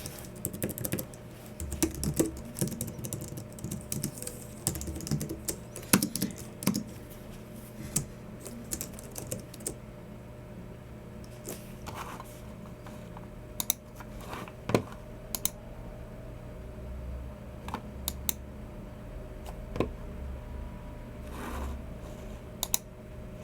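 Typing on a Logitech MX Keys Mini low-profile scissor-switch keyboard: quick runs of soft keystrokes for the first several seconds, then slower, scattered keypresses.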